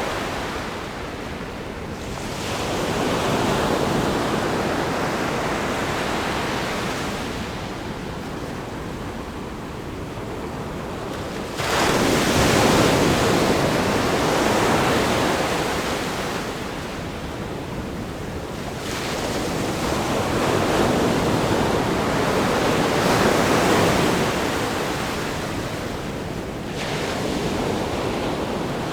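Ocean waves breaking on a rock groin by a sandy beach: a continuous wash of surf that swells and ebbs in surges, with a sudden louder break about twelve seconds in and another, smaller one near the end.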